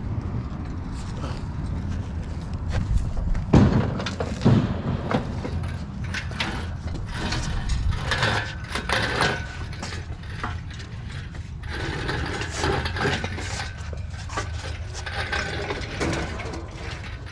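Metal clicking and rattling of an engine hoist and its load being worked and moved, with two heavier knocks about three and a half and four and a half seconds in.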